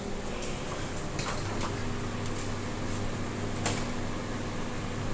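Scattered sharp clicks and knocks of tools and parts being handled, over a steady low hum.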